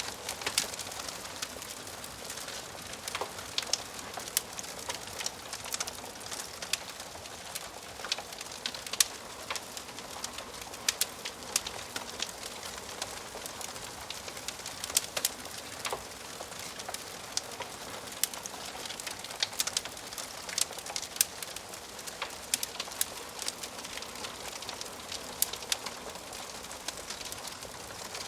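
Wood fire crackling in a fireplace: a steady hiss with frequent irregular sharp pops and snaps from the burning logs.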